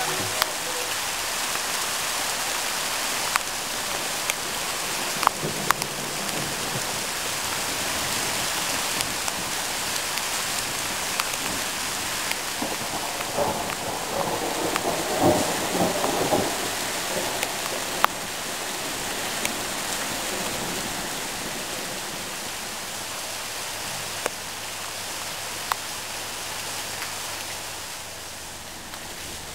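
Steady rain falling, an even hiss with scattered sharp ticks of drops striking close by. The patter grows louder for a couple of seconds about halfway through.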